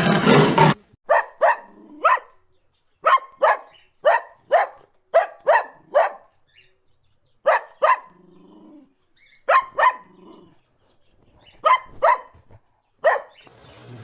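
A dog barking: about sixteen short, sharp barks, mostly in quick pairs and threes with pauses between.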